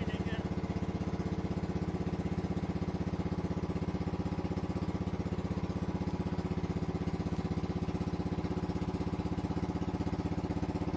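A motorboat's engine running steadily at an even speed, with a fast, regular chugging pulse.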